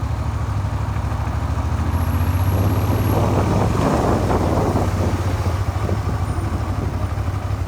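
Suzuki SV400 motorcycle engine running steadily at idle. The engine is one known to knock after a makeshift crankshaft repair. In the middle a louder rush of noise swells and fades over about two seconds.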